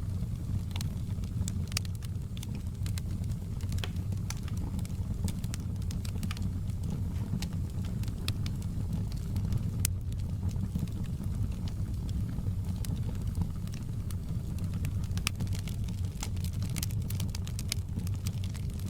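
Wood logs burning in a fireplace: a steady low rumble of flames with frequent sharp crackles and pops, which bunch together near the end.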